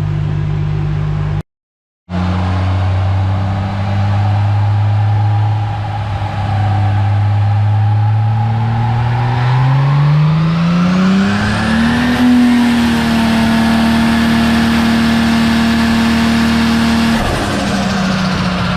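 Toyota 2JZ-GTE inline-six with a G40 single turbo running on a chassis dyno, held at steady revs. About eight seconds in it climbs smoothly to a higher speed, holds there, then eases down a step near the end: steady-state runs for matching the dyno to the engine's RPM during tuning. There is a brief dropout to silence near the start.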